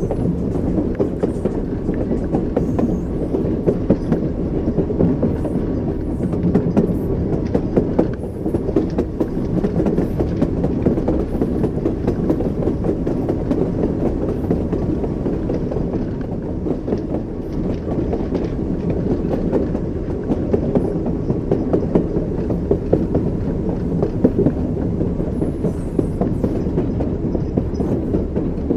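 Train wheels rumbling steadily over the rails, with faint clicks of the wheels crossing rail joints heard through the rumble.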